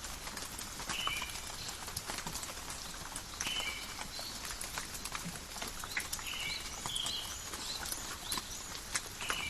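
Steady forest rain, with individual drops tapping close by. Short high chirping calls break in every couple of seconds.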